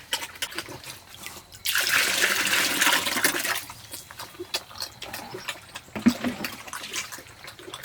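Water rushing for about two seconds, starting a couple of seconds in, then scattered small splashes and knocks.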